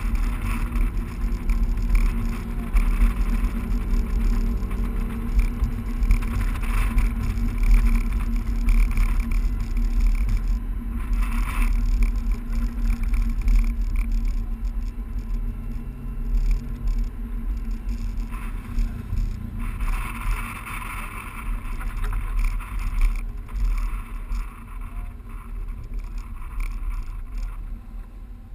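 BMW 135i's turbocharged straight-six running at low revs as the car drives slowly, with a steady engine hum under wind and road noise; it gets quieter over the last few seconds as the car slows.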